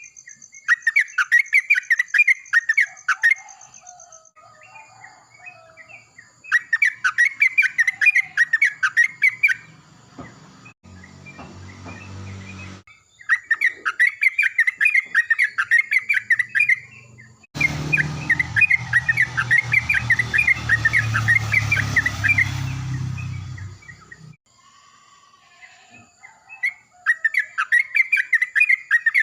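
Yellow-vented bulbul (trucukan) singing loud bursts of rapid, bubbly chirping notes, each burst about three seconds long and repeated five times with short pauses. A low rumbling noise runs under the fourth burst, and a faint steady insect tone sits in the background early on.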